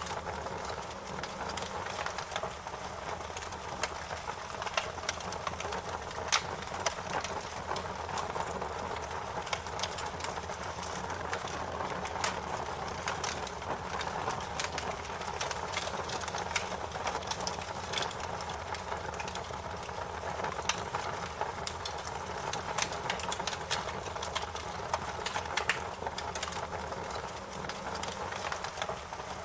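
Fire crackling: a steady hiss with many irregular sharp pops and snaps, a few of them louder than the rest.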